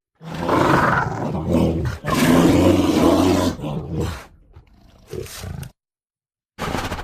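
Asiatic black bear vocalising: loud, rough, low-pitched calls in one long bout that fades away after about four seconds, then a fresh call starting near the end after a sudden break to silence.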